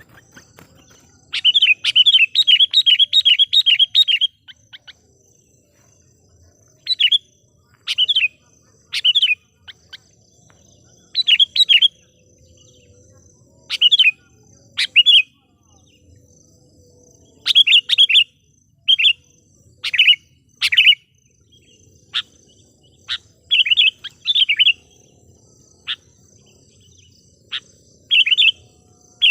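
Sooty-headed bulbul decoy bird calling to lure wild bulbuls: a fast run of about a dozen bright chirps in the first few seconds, then short bursts of chirps every second or two.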